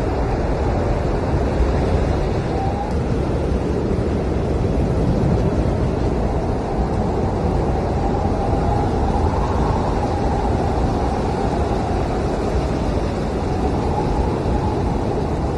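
Blizzard wind blowing hard and steadily, with a faint whistling howl that rises and falls in pitch around the middle.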